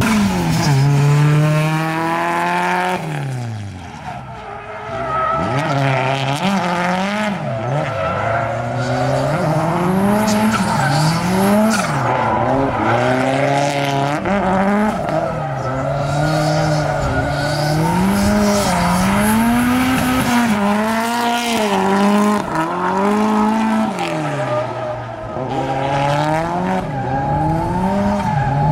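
Honda K24 four-cylinder engine in a drifting Nissan Cefiro, its pitch rising and falling over and over as the throttle is worked, with tyres squealing.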